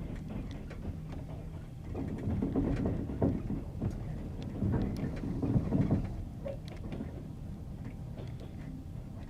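Passenger train rolling over jointed rail: a steady rumble with sharp clicks, and two louder rounds of wheel clatter over rail joints, about two and five seconds in.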